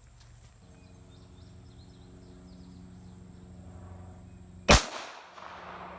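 A single gunshot near the end, sharp and loud, followed by a short echo. A steady low hum runs underneath.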